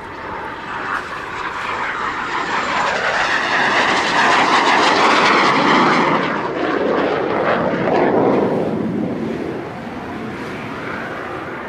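BAe Hawk Mk 51 jet trainer's Rolls-Royce Turbomeca Adour turbofan roaring as the jet flies past: it builds up to a peak about halfway through, then drops in pitch as it passes and fades.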